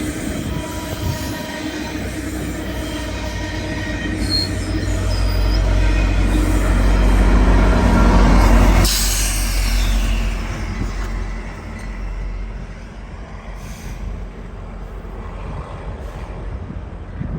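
GO Transit commuter train passing close by. A low rumble and rolling noise build to their loudest about nine seconds in, then drop off suddenly and fade as the train moves away. Thin, steady squealing tones from the wheels sound in the first half.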